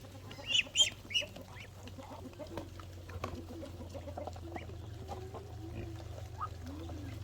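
Farmyard chickens clucking, with three loud, high calls in the first second and softer calls after them.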